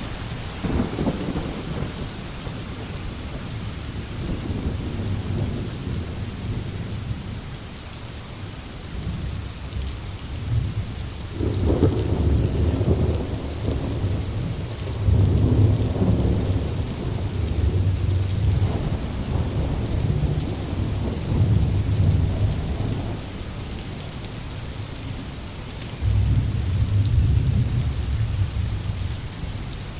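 Steady rain with rolling thunder: deep rumbles swell about a second in, roll on and off through the middle, and return near the end.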